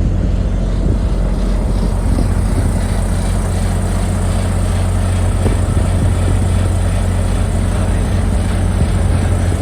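Diesel engine running steadily with a low, even hum.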